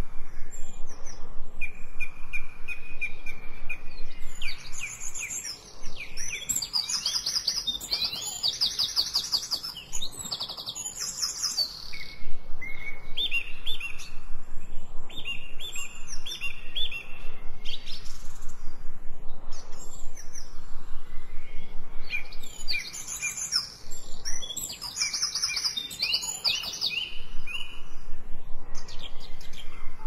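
Songbirds singing, several birds overlapping: runs of repeated high chirps and fast, dense trills that come and go in waves.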